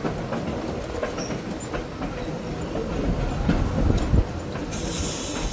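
Wason-built 1926 Springfield Electric Railway No. 16 trolley car running along the track: a steady low rumble of wheels and running gear with scattered clicks over the rail joints. A short high hiss comes in near the end.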